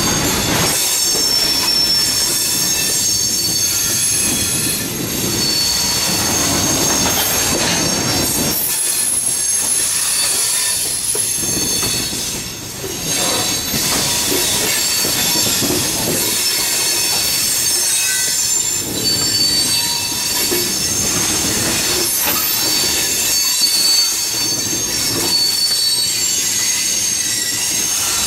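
Freight train wheels squealing against the rails as the cars roll through a curve: several shrill, steady squeals overlap and shift in pitch over the rumble of the moving train.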